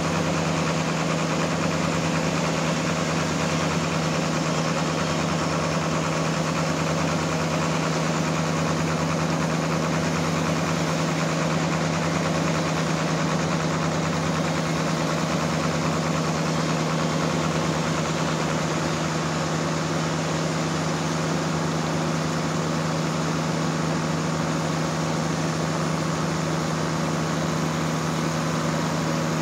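Engine of a homemade band sawmill running steadily at a constant pitch, with no change in speed or load.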